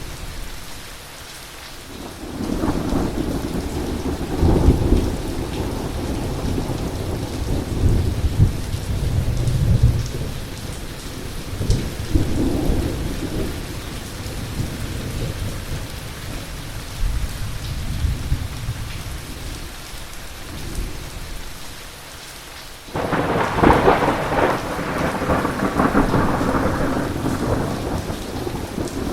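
Heavy rain falling steadily through a thunderstorm, with a long low rumble of thunder rolling from about two seconds in. Near the end a sudden loud thunderclap breaks in and keeps rumbling.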